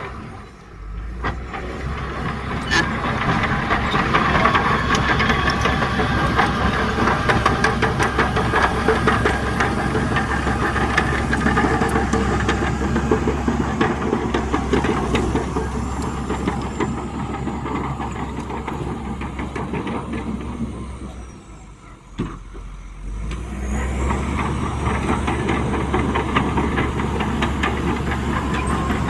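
Heavy diesel earthmoving machinery working, with the engine running steadily under load over a dense clatter of fine clicks. The sound drops away briefly twice, just after the start and about two-thirds of the way through.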